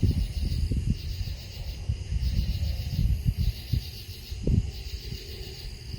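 Night insects chirring in a steady, finely pulsing high chorus, over irregular low rumbles and knocks.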